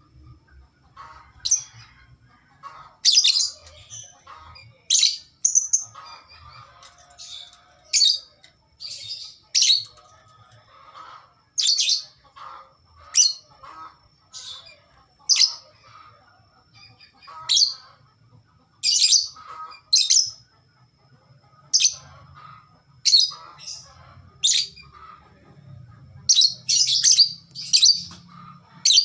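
A songbird calling vigorously: short, sharp, high-pitched chirps repeated about once every second or so, with softer, lower twittering between them.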